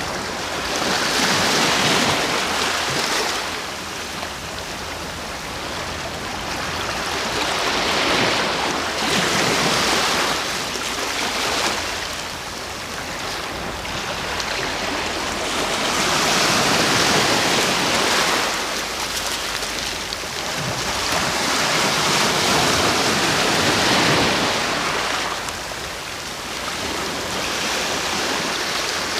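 Ocean waves breaking on the shore, the surf swelling and fading every few seconds.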